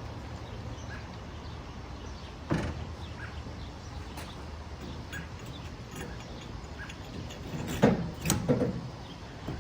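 Knocks and clunks of the wheelbarrow's wheel and its metal spacers being handled: one sharp knock about two and a half seconds in, then a louder cluster of clunks near the end.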